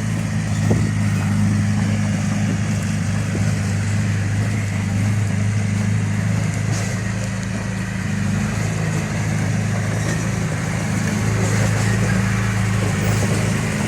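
Heavy-equipment diesel engine running steadily, holding a nearly constant pitch.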